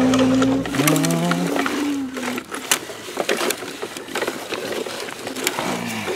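A child's voice making a long, steady engine-like hum that breaks off about half a second in, followed by a few wavering hums until about two and a half seconds in. After that come scattered small clicks and knocks, typical of toy trucks and bricks being handled.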